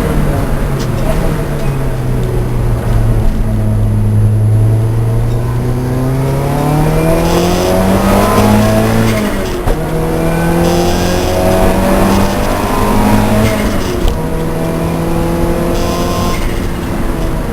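Lancia Delta race car engine under racing load. Its revs fall in the first few seconds, then climb steadily. The pitch drops suddenly about halfway through and again near the end as it shifts up.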